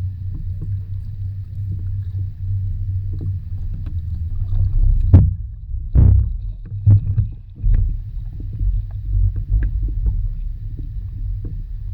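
Underwater ambience of a shallow lagoon: a steady low rumble broken by several knocks, the loudest two about five and six seconds in.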